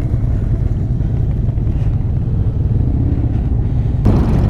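Motorcycle engine running under a steady low rumble of wind on the rider's microphone, with a louder, hissier rush coming in about four seconds in.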